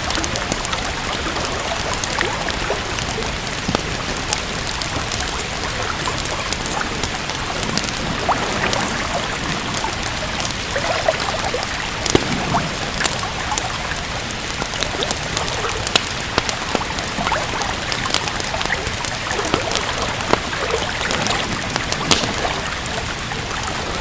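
Steady rain falling, mixed with the frequent sharp crackles and pops of a wood fire burning in a fireplace.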